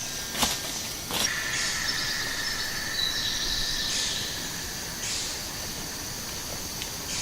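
Insects buzzing steadily in a high-pitched chorus, growing louder from about one to five seconds in, with a few sharp clicks in the first second or so.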